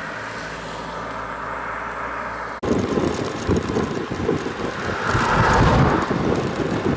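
Wind rushing over the microphone of a camera on a moving bicycle. It is steady at first, then after an abrupt cut about two and a half seconds in it turns louder, with irregular low buffeting.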